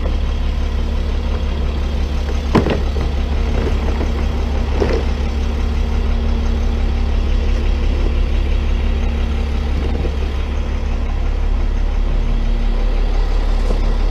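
Tow truck engine idling steadily, with a couple of short knocks about two and a half and five seconds in.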